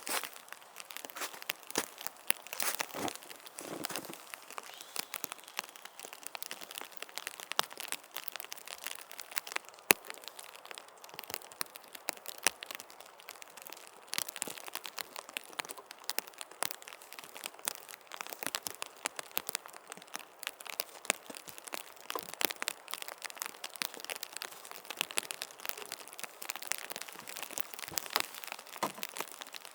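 Heavy rain falling, a dense irregular crackle of drops striking a surface, with a few sharper taps standing out.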